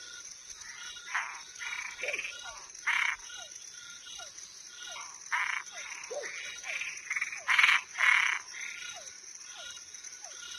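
Night chorus of frogs and treefrogs calling from several species at once: short rasping croaks, a repeated short falling note, and two loud calls close together about eight seconds in. Underneath runs a steady high insect trill, typical of crickets.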